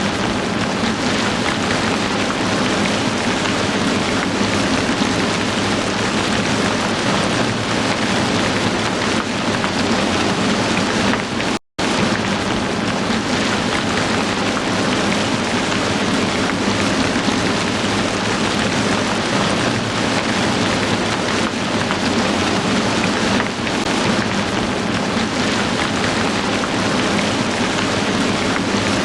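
Heavy rain falling in a steady, dense downpour. The sound cuts out completely for a split second about twelve seconds in, then resumes unchanged.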